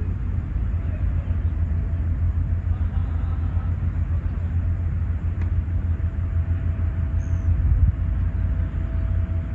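Outdoor park ambience dominated by a steady low rumble. A faint steady hum joins about halfway through, and a single short, high chirp comes near the end.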